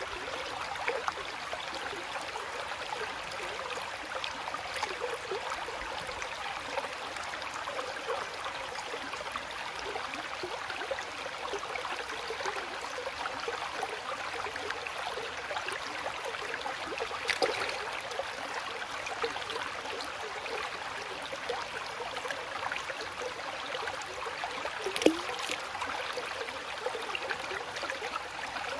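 Running water trickling and babbling steadily, with a couple of slightly louder splashes, one about two-thirds of the way through and one near the end.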